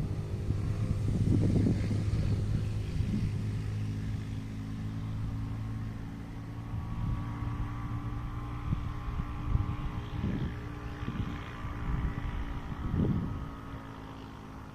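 A steady low machine hum throughout, with a fainter higher whine in the middle, and irregular gusts of wind buffeting the microphone.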